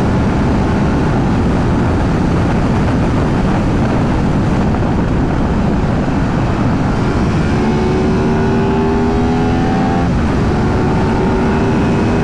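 Heavy wind rush on a riding motorcycle's helmet microphone, with the Aprilia 660 parallel-twin engine underneath. The engine note rises steadily under acceleration, drops once about ten seconds in and climbs again.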